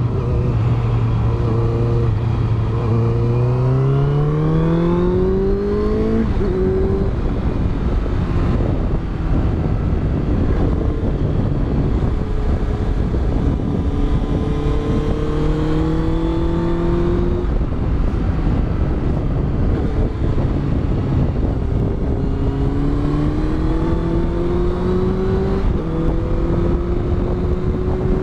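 Honda CBR650F's inline-four engine at riding speed, fitted with a Yoshimura exhaust. Its revs climb under acceleration and drop at gear changes, about six seconds in and again near the end, with two more slow pulls in between, over a steady rush of wind and road noise.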